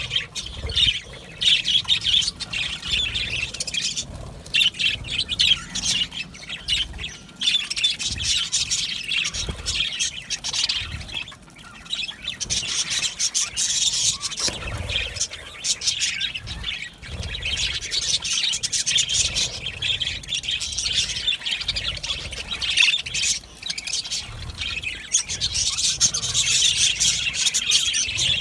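A flock of budgerigars chattering, chirping and squawking continuously, many birds calling over one another.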